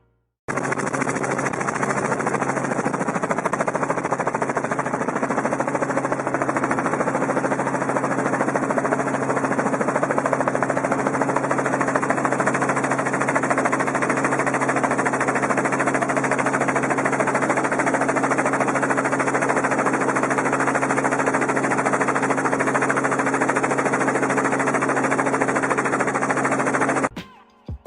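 Steady drone of an aircraft in flight: a constant low engine hum under a loud, even rush of noise. It cuts off suddenly near the end.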